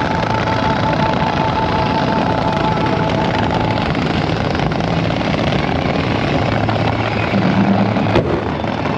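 Fan-shaped fireworks fountains firing continuously, a steady rushing hiss thick with crackle, with one sharp bang about eight seconds in.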